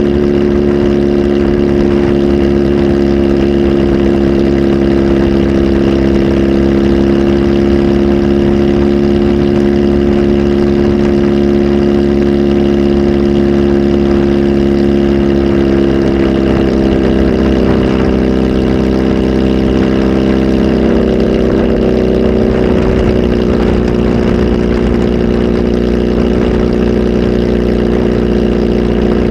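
Kawasaki Z H2 SE's supercharged inline-four running at a steady speed through a full aftermarket exhaust system, on a flash tune. The engine speed shifts slightly about two-thirds of the way through, then holds steady again.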